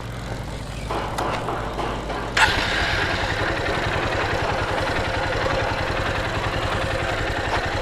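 A motorbike engine idling steadily, with a sharp knock about two and a half seconds in, after which the engine sound is louder.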